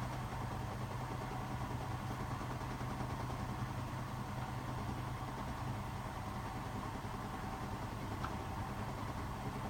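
Hotpoint WMFUG 942 washing machine running with a steady low hum, with a faint click about eight seconds in.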